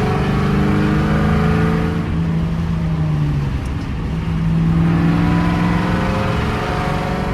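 Ford Mustang GT's 4.6-litre two-valve V8 exhaust under way on the road: the engine note climbs as it pulls, drops a little past three seconds in, holds steady, then climbs again near the end.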